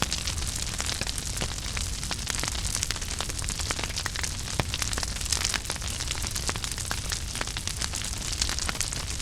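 Wood fire in a fireplace burning steadily with a low rumble of flames and frequent irregular crackles and pops.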